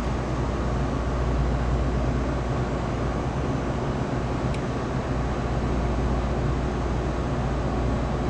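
Steady low rumble of wind and road noise while riding, with one faint tick about four and a half seconds in.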